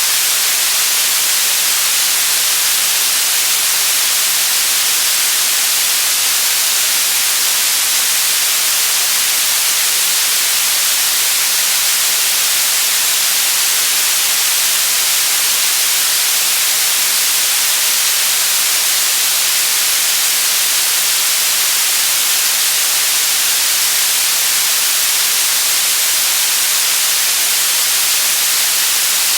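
White noise: a steady, unbroken hiss at constant loudness, with no change at any point.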